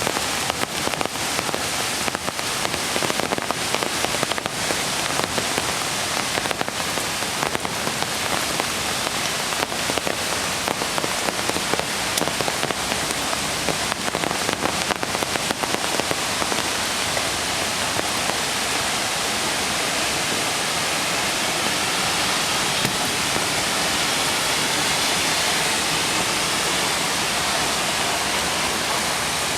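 Rain pattering, with many close individual drops over a steady wash of water for the first half, then giving way to an even rush of flowing creek water in the second half.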